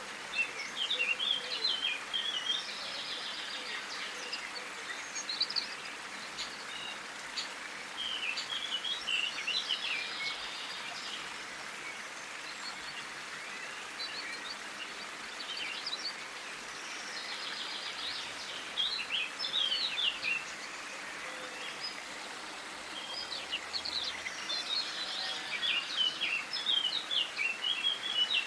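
Small songbirds twittering in clusters of quick high chirps every few seconds, over a steady background hiss.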